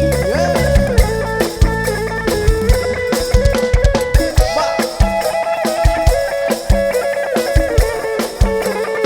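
Live band playing an instrumental passage: a drum kit keeps a steady beat under a bass line and a lead melody that slides between notes.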